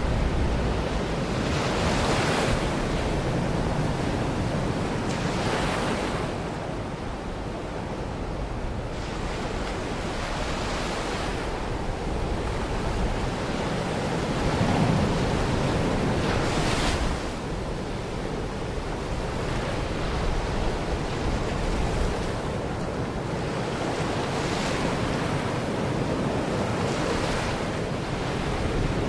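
Small waves washing onto a Baltic Sea beach, each breaking every few seconds, with wind buffeting the microphone.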